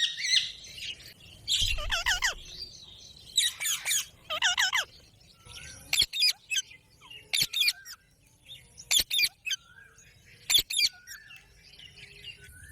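Pet parrot calling: several shrill, warbling squawks in the first few seconds, then four short, sharp calls spaced a second or two apart.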